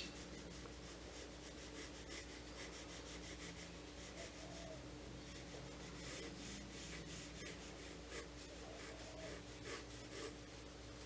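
Sketching strokes on sketchbook paper: faint, quick, scratchy strokes in irregular runs, with a faint steady hum beneath.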